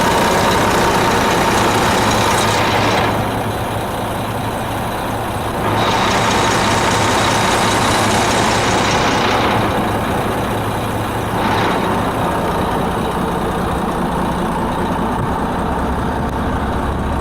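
Diesel engine of a 2003 International dump truck running at a steady idle. A loud hiss comes and goes over it, twice for several seconds and once briefly.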